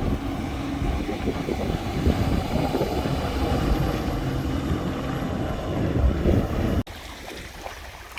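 Strong wind buffeting the microphone as a heavy, gusting low rumble, cut off abruptly near the end by a quieter, softer hiss.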